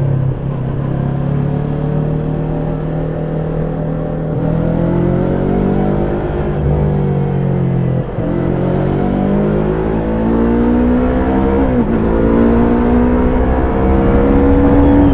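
Yamaha YZF-R3's stock 321 cc parallel-twin engine under way. Its pitch holds steady for a few seconds, then rises as it accelerates through the gears, with a brief dip at upshifts about eight and twelve seconds in.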